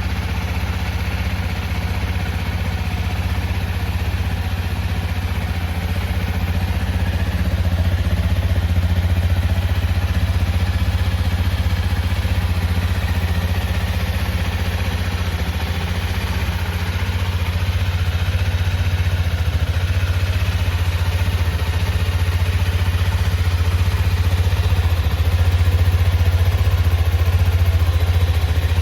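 Honda CRF250M's single-cylinder four-stroke engine idling steadily, with a light mechanical clatter.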